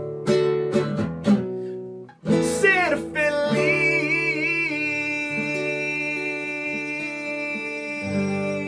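Acoustic guitar strummed in chords, then a short break about two seconds in. After it a wordless sung note slides and is held with vibrato over ringing guitar chords as the song closes.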